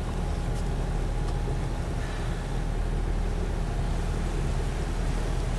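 Boat under way: a steady low engine drone with the rush of water and wind.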